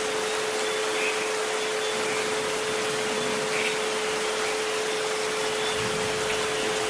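Steady hiss of rain with a pure, unwavering 432 Hz tone and a fainter 528 Hz tone held beneath it.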